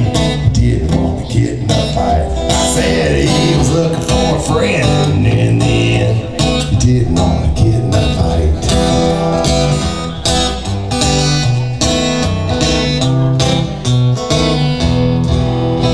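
Live folk song played on a strummed acoustic guitar, with full band-like music running steadily throughout.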